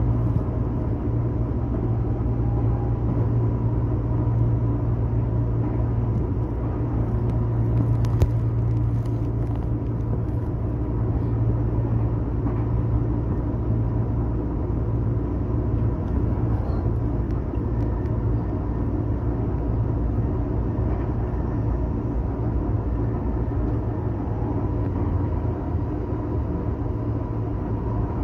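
Tobu Nikko Line train running between stations, heard from inside the car: a steady low rumble of wheels and running gear with a faint steady whine. A brief tick sounds about eight seconds in.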